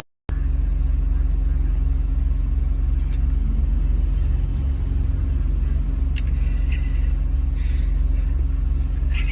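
Steady low drone of a motor vehicle, engine and road rumble with an even low hum, with a few faint short higher sounds in the middle.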